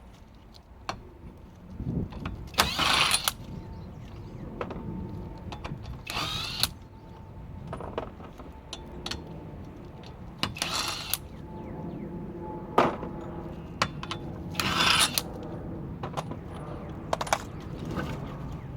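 Four short bursts from a tool, about half a second each and a few seconds apart, with scattered clicks and knocks of metal parts between them, during work on a vehicle's shock absorbers.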